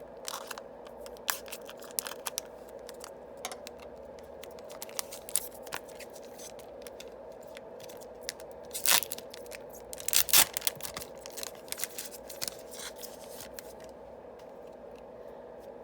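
Yu-Gi-Oh! booster packs being opened and their cards handled: scattered small clicks and rustles of wrapper and card stock, with the loudest crinkling tears about nine seconds in and again a second or so later.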